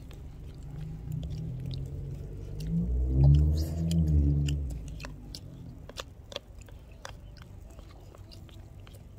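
A person chewing and biting grilled anchovies close to the microphone, with scattered small clicks in the second half. A low pitched hum swells to the loudest point about three seconds in and fades by five seconds.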